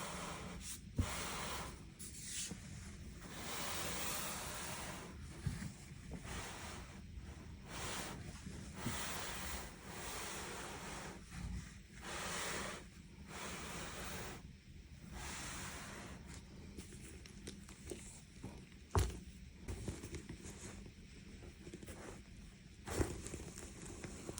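Hands handling a leather bag: bouts of rustling and rubbing, broken by a few sharp knocks, the loudest about nineteen seconds in.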